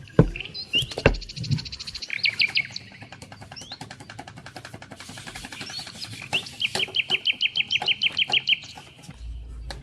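Songbirds singing: a quick trill about a second in, and later a longer, even trill of about eight notes a second, with scattered chirps between. A few sharp knocks come near the start.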